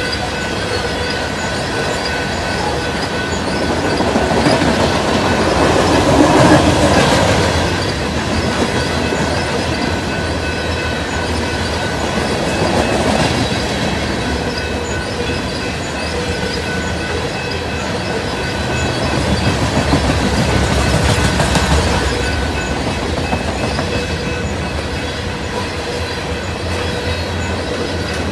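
Freight train of covered hopper cars rolling past: a steady rumble of wheels on rail with clickety-clack over the joints and thin steady squealing tones. The noise swells twice, around five seconds in and again around twenty.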